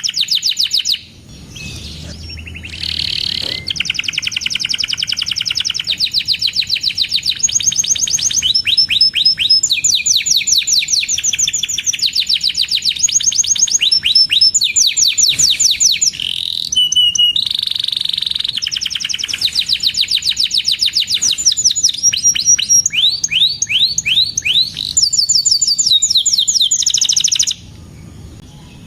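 Canary singing a long rolling song of rapid trilled phrases, each a quick run of repeated high chirping notes, switching to a new note type every second or two. It drops back briefly about a second in and again near the end.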